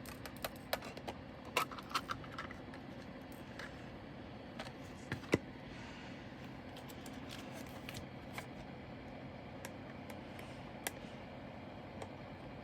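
Diamond-painting drills and their small plastic containers being handled: scattered light clicks and rattles, several close together in the first couple of seconds, then single ones about five and eleven seconds in, over a steady low hum.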